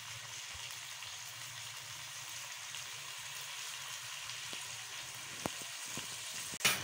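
Chicken, green peas and chopped tomatoes frying in oil in a kadai, a steady even sizzle, with a few faint ticks near the end.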